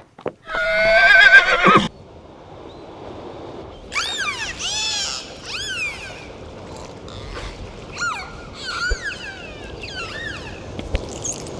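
A horse whinnies loudly for about a second and a half, its pitch wavering, just after a couple of hoof clicks. Later, a run of shorter calls rises and falls in pitch.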